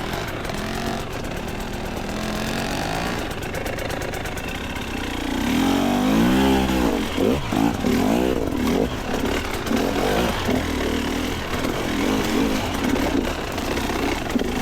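Two-stroke dirt bike engine running on the trail, the throttle worked on and off so the engine pitch rises and falls repeatedly from about halfway through.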